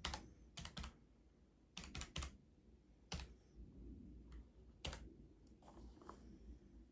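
Scattered key presses clicking, single or in quick runs of two or three, with pauses between them.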